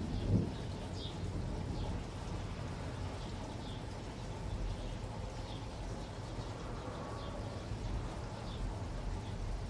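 Steady rain with a small bird giving short high chirps about once a second, and one low thump about half a second in.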